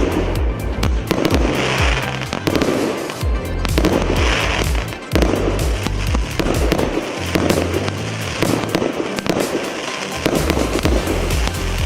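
A 120-shot, 1-inch fireworks cake (barrage battery) firing a rapid, continuous run of shots and bursts, several a second. Music with a pounding bass plays along with it.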